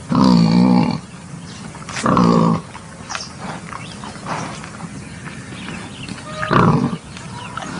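Wild boar giving three loud grunting calls, each well under a second long: two about two seconds apart, then a third about four seconds later, with fainter snuffling sounds between.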